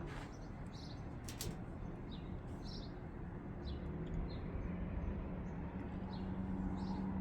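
Small birds chirping in short, scattered calls, over a steady low hum that grows a little stronger about halfway through.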